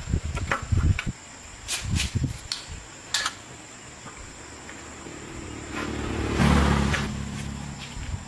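A few sharp knocks and taps, then a motor's steady hum that swells from about five seconds in, peaks and fades away.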